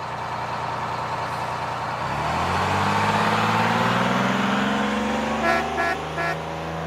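Car engine running and speeding up, its pitch rising steadily from about two seconds in, with three short horn toots near the end.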